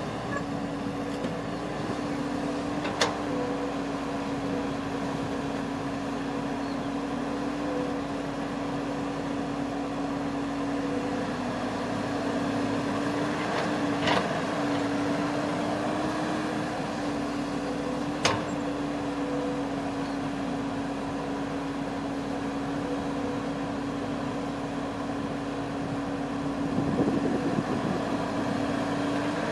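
Rice harvesting machine's engine running steadily with a constant hum, with three sharp clicks about three, fourteen and eighteen seconds in.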